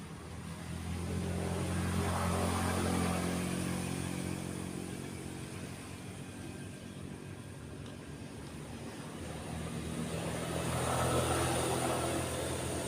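Road vehicles passing by one after another, the engine sound swelling and fading twice: one pass peaks about two to three seconds in, another near the end.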